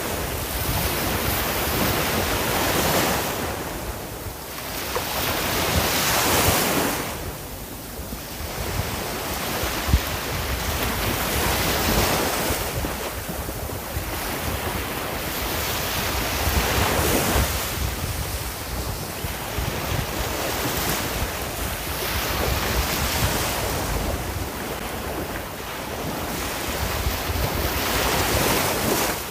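Ocean waves breaking and washing on the shore, the surf noise swelling and falling back every few seconds, with wind rumble on the microphone.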